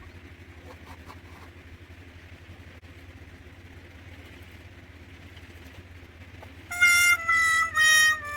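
A faint steady low hum, then near the end three loud, short horn-like toots, each a little lower in pitch than the one before.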